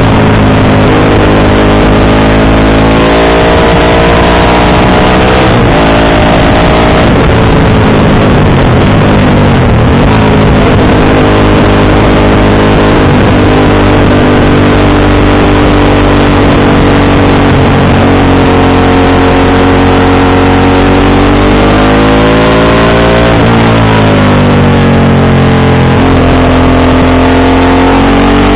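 Motorcycle engine and exhaust under way, climbing in pitch as it pulls and dropping sharply at each gear change, about six times, with one steadier stretch in the middle. A constant loud rushing noise sits under the engine.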